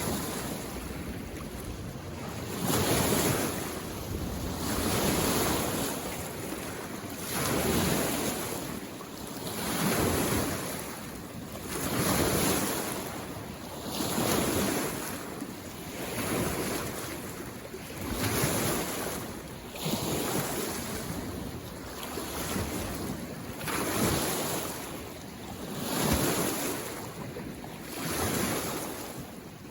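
Small waves on a mountain lake coming in, one wash of water about every two seconds, each swelling and falling away.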